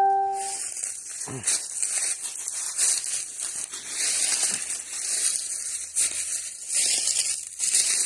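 Footsteps crunching through dry leaves, an uneven crackling with each step.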